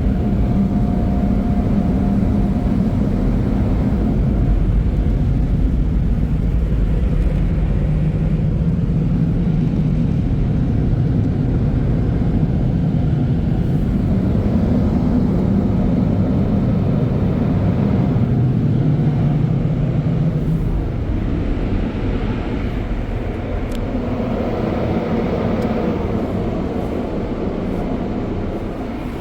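Car wash tunnel air dryers (NCS MacNeil blowers) blasting air over the car in a steady, loud roar. It gets quieter about two-thirds of the way through.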